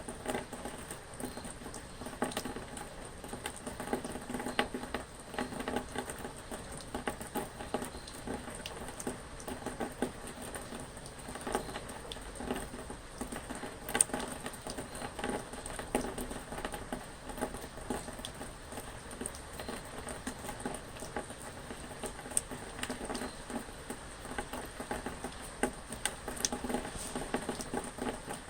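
Rain pattering steadily on a surface: a dense, irregular run of small drops and ticks.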